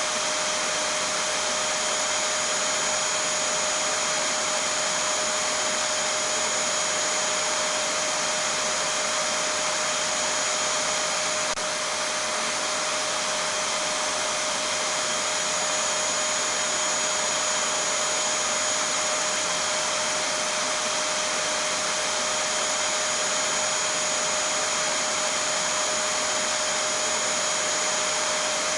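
Vacuum cleaner running steadily: an even whooshing rush of air with a constant high whine and a steady lower hum, no change in speed or load.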